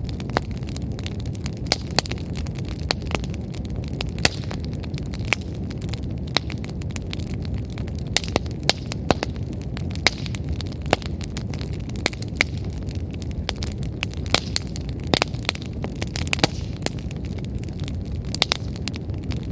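Wood fire burning with a steady low rumble of flame and frequent sharp, irregular crackles and pops from the firewood.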